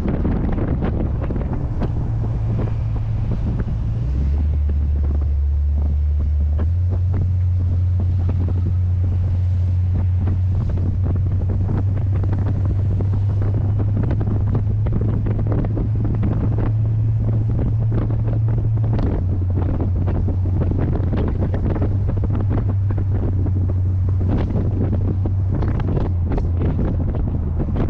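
Heavy wind buffeting on the microphone from a moving C3 Corvette. Underneath runs the low, steady drone of its 350 small-block V8, which shifts to a new pitch a few times, about 4 s, 7 s and 19 s in.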